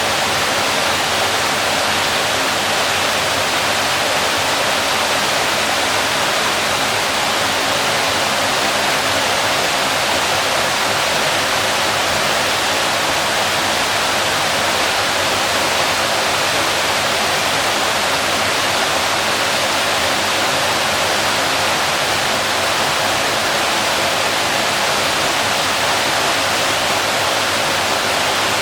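Waterfall: water falling and splashing in a loud, steady, unbroken rush.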